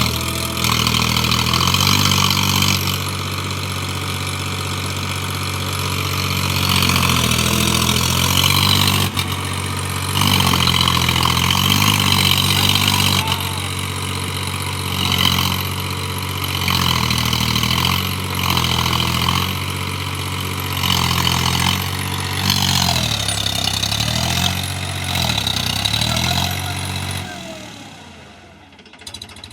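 Diesel tractor engine revving up and down over and over, straining to pull a sugarcane-laden trolley out of where it is stuck; the engine note drops away near the end.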